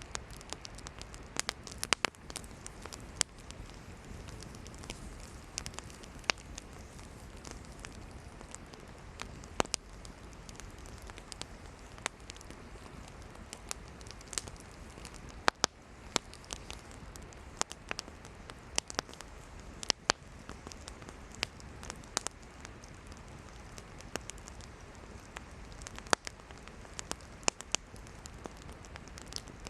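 Campfire of burning firewood crackling, with sharp irregular pops and snaps over a steady hiss of the flames.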